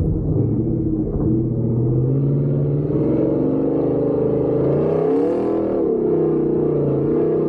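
Truck engine under throttle on a dirt track, its pitch climbing, dropping briefly about five and a half seconds in as it eases off, then rising again.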